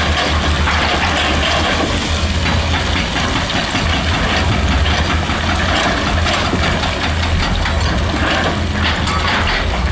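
Excavator's diesel engine running steadily under a constant low rumble.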